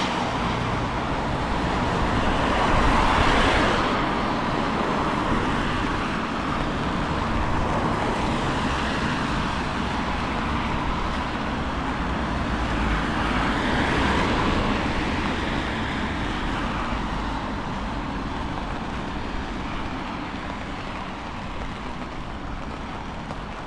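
Road traffic on wet streets: vehicles passing with tyre hiss, swelling twice and slowly fading toward the end, over a low rumble of wind on the microphone.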